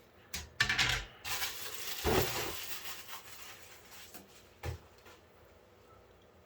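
Handling noises from working on a PC case: a few clicks and clatter, then a couple of seconds of rubbing and scraping, and a single short knock near the five-second mark.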